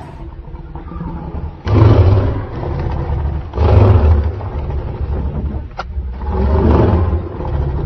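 Big cats, a black panther and a leopard, growling and snarling in a fight. There are three loud, deep surges about two seconds apart over a continuous low rumble.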